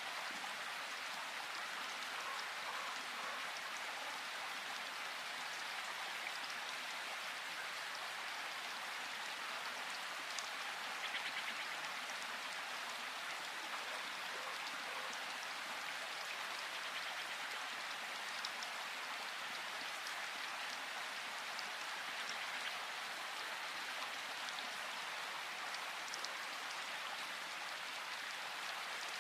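Steady rain falling in a forest, a constant hiss with single drops ticking now and then, a little louder for a moment about eleven seconds in.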